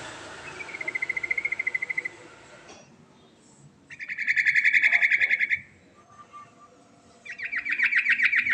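Yellow-vented bulbul (trucuk) singing a run of rapid, rattling trills, three phrases in a row, the middle one the loudest, as part of its continuous song with filler phrases. A hiss lies under the first phrase.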